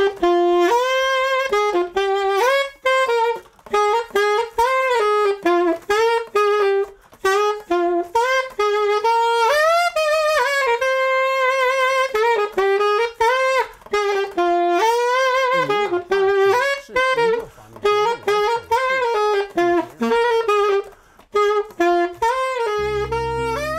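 Unaccompanied saxophone playing a slow, lyrical melody in phrases with short breaks for breath. Low sustained notes from another instrument come in near the end.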